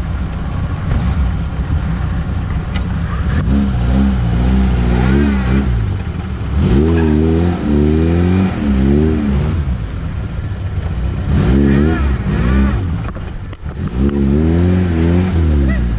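Off-road vehicle engine driving off and revving in repeated surges, its pitch rising and falling several times over a steady low drone.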